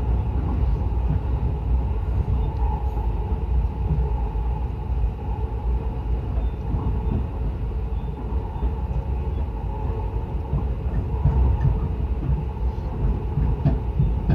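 Yokosuka Line electric commuter train running between stations: a steady low rumble under a steady hum, with a few faint knocks from the wheels near the end.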